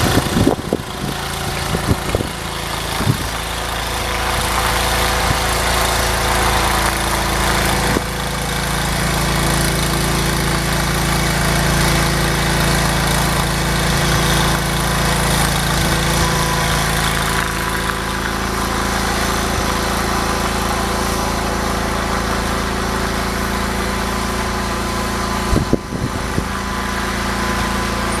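Small garden tractor engine running steadily while it warms up for plowing snow, with a few short knocks in the first seconds and again near the end.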